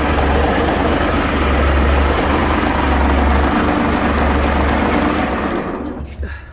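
Gardner 6LYT six-cylinder diesel engine running steadily at idle, then dying away in the last second or so as it is shut down.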